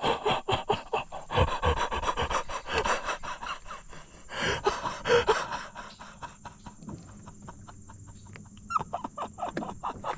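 A man breathing hard and panting in excitement, with rapid clicking throughout apart from a lull around the middle.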